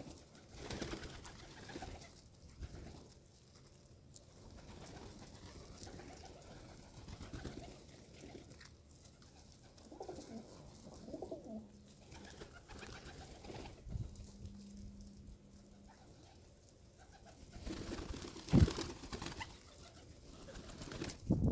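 Pigeons cooing in low, gliding calls, one held for about two seconds midway, with scattered pecking clicks and rustling and a sharp thump near the end.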